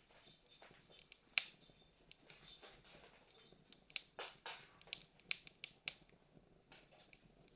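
Wood campfire crackling, with irregular sharp pops and snaps. One louder pop comes about a second and a half in, and the pops bunch together in the middle.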